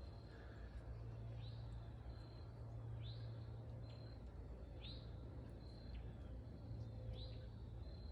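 A bird calling four times at intervals of about one and a half to two seconds, each call a short sweeping high note followed by a brief even note. A steady low rumble runs underneath.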